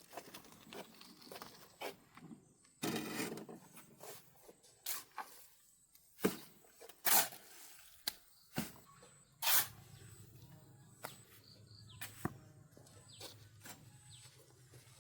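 Irregular sharp knocks and clacks, with a short scraping rush about three seconds in and the loudest knocks around the middle.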